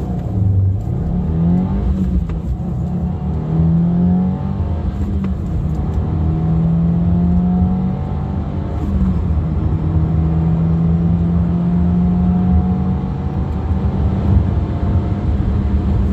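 Stock 2022 Subaru WRX's turbocharged 2.4-litre flat-four, heard from inside the cabin, launching from a standstill and accelerating hard through the gears of its manual gearbox. The engine note rises in pitch through each gear and drops back at every upshift, then levels off over the last few seconds.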